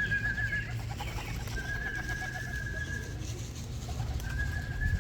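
A pigeon fancier whistling three long, steady notes to call his racing pigeons in to the loft, with pigeons cooing faintly underneath.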